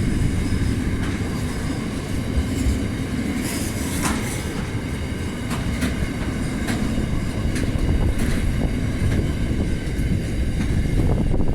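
A train's wagons rolling past close by: a steady low rumble, with wheels clicking over rail joints and a thin, steady wheel squeal.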